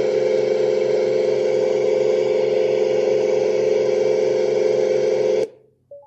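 Dreamegg Pocket Sleep 1 mini white noise machine playing one of its built-in sleep sounds: a loud, steady hum-and-hiss with a held tone and a regular low throb. It switches in suddenly from the previous sound and cuts off about five and a half seconds in.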